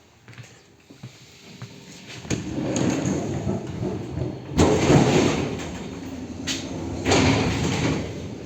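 Electric commuter train's sliding doors and carriage noise: quiet at first, then a rising rumble from about two seconds in, with two loud bangs near the middle and near the end.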